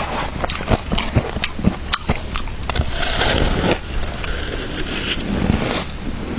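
Close-miked crunching of shaved ice with matcha being bitten and chewed: a dense, irregular run of sharp cracks and crunches.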